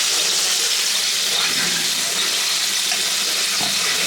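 Yogurt-marinated chicken pieces sizzling in hot oil in a pan as they go in to fry: a steady hiss.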